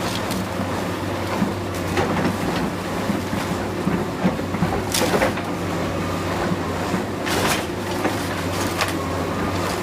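Heavy demolition machinery running with a steady diesel hum, with sharp cracks of breaking debris about five and seven and a half seconds in.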